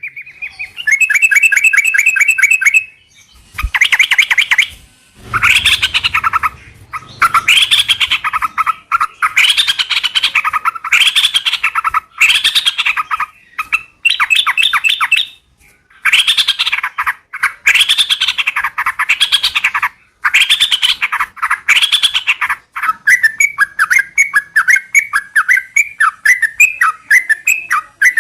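Yellow-vented bulbul (trucukan) singing: loud, repeated short phrases about a second apart, breaking into a faster run of short chattering notes near the end.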